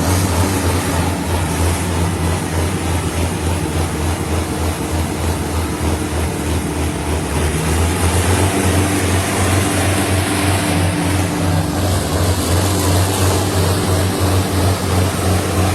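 Sonalika tractor diesel engines running hard and steadily, a deep, even engine note with no break, as in a tochan tug-of-war pull between two tractors.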